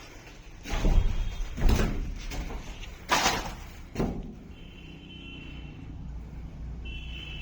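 Four knocks and slams over about four seconds, the third a long noisy scrape-like slam and the last a sharp bang, like doors or panels being shut; then a low steady rumble with a faint high tone twice.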